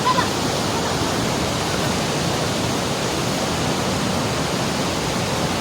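Steady, loud rush of fast-flowing water, such as a swollen mountain torrent pouring past.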